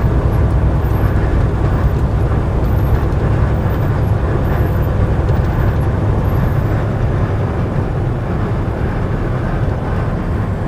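Steady low drone of a semi truck's diesel engine and tyres on the road, heard from inside the cab while cruising on the highway.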